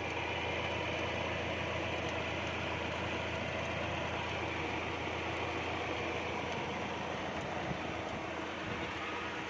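Kubota L5018 diesel tractor engine running steadily at low revs, under about 1,000 rpm, driving a belt-and-pulley water pump through its PTO.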